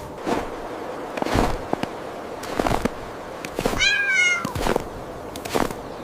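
A cat meows once, a single drawn-out call a little under a second long, about three and a half seconds in. Short, noisy thuds recur about once a second throughout.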